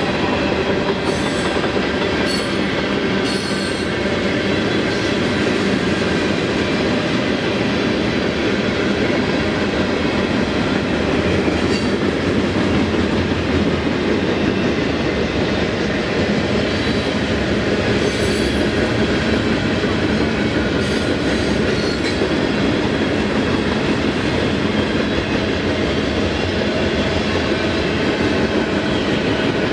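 Mixed freight train's cars rolling steadily past on the rails: a continuous loud rumble of steel wheels on track, with brief high-pitched wheel squeaks now and then.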